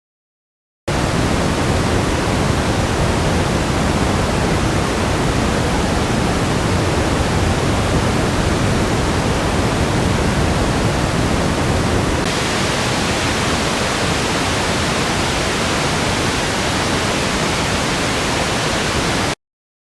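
Band-limited audio test noise, switched on and off abruptly. It starts as a bass-heavy pink noise and about eleven seconds in changes to a brighter, hissier noise with less low end.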